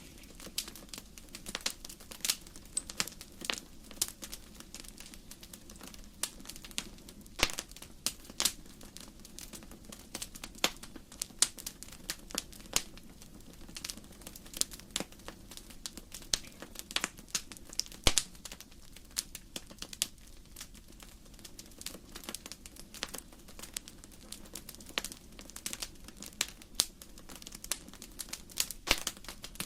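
Firewood burning in a fireplace, crackling with irregular sharp pops and snaps, a few louder than the rest, over a low steady rush of the fire.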